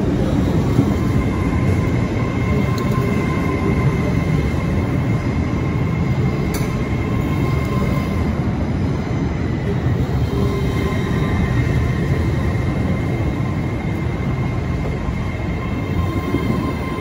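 LNER Azuma intercity train pulling slowly into a station platform: a steady rolling rumble of the carriages passing close by, with a faint high whine held over it.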